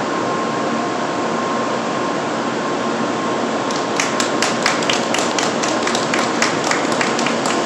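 Shinkansen train pulling out of the platform with a steady rushing noise. About four seconds in, a small group on the platform starts clapping steadily.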